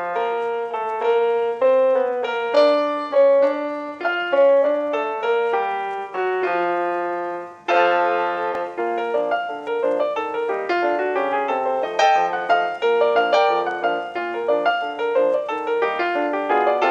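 Background piano music: a melody of separate struck notes over low chords, with a new phrase starting about halfway through.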